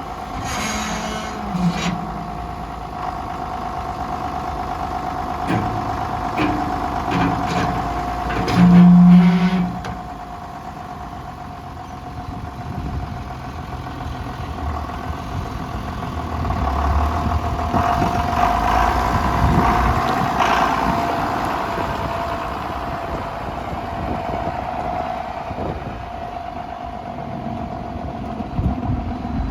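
John Deere 7210 tractor's six-cylinder diesel engine running steadily, busier for a few seconds in the second half. A brief, louder low-pitched sound comes about nine seconds in.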